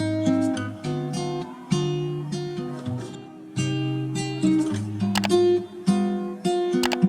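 Acoustic guitar music, chords strummed and plucked in a slow, even rhythm, changing about once a second.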